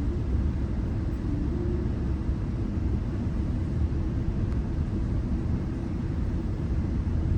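Steady low rumble of a GO Transit commuter train running on the rails, heard from inside the coach.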